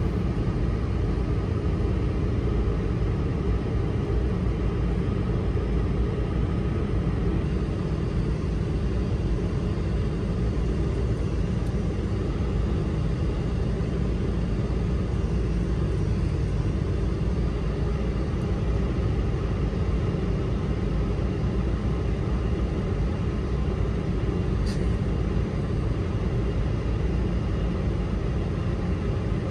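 Steady low rumble of cabin noise aboard an Airbus A220-300 airliner, from the engines and the air rushing past, with one faint short tick near the end.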